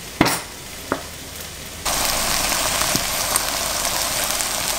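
A sharp click just after the start and a smaller one about a second in, then from about two seconds in a steady frying sizzle of shrimp and vegetables in a wok.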